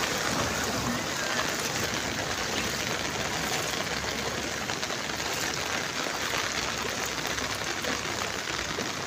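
Rain falling steadily onto floodwater covering a road, an even hiss of drops striking the water.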